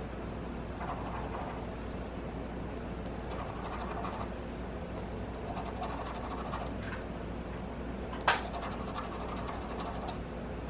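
Scratch-off lottery ticket being scratched, the coating rubbed off in short bouts of quick scraping strokes. A single sharp tap about eight seconds in.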